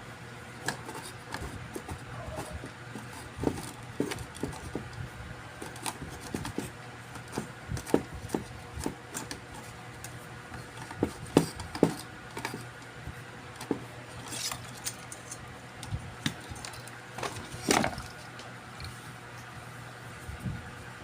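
Small tools and parts clicking and tapping irregularly on an electronics repair bench, over a steady low hum.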